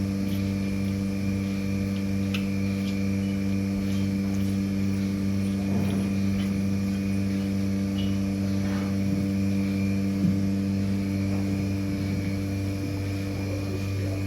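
Steady electrical or machine hum with a low, even pitch, with a few faint clicks and knocks over it.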